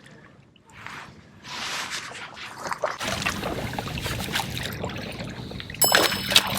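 Water splashing and trickling around a kayak hull, with scattered small knocks and a brief clatter near the end.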